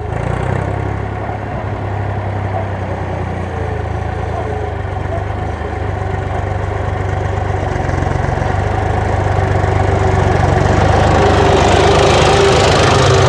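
Ursus 3512 tractor's three-cylinder diesel engine running steadily, growing louder over the last several seconds.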